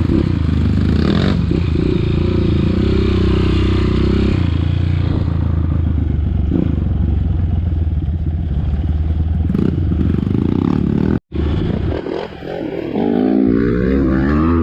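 Off-road dirt bike engine running steadily under way, cut off abruptly for an instant about eleven seconds in, then revving up and down near the end.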